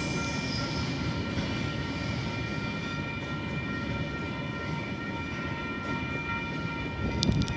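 Freight train rumbling away into the distance, its noise slowly fading, with several steady high tones ringing over it. A few sharp clicks come near the end.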